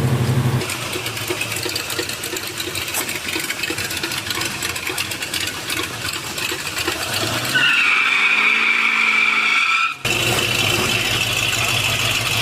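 Car engines running at a drag strip, heard in several clips cut together. The sound changes abruptly a few times, and a steady high whine with a second, lower tone comes in for about two seconds a little past halfway.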